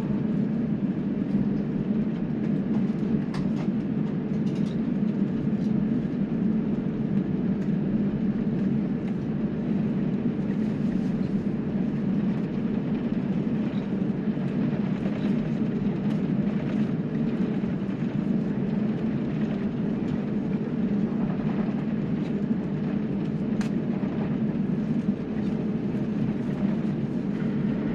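Steady low rumble in a jet airliner's cabin with the engines running, with a few faint clicks.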